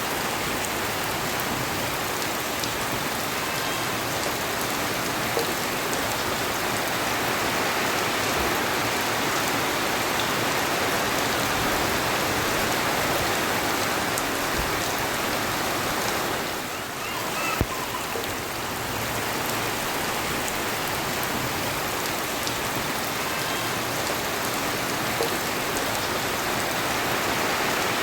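Steady rain falling, an even hiss. About two-thirds of the way in it dips briefly, and there is a single click.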